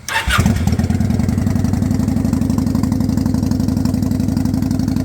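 Kawasaki Vulcan VN900's V-twin engine being started: a brief crank on the electric starter, then it catches within about half a second and settles into a steady, pulsing idle.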